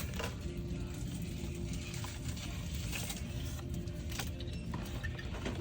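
Steady low background rumble with faint music playing.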